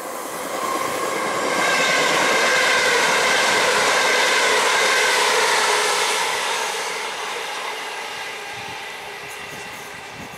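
A c2c electric multiple unit train passing on the line: wheels on the rails with a steady whine. It builds to its loudest about two seconds in, holds for a few seconds, then fades away.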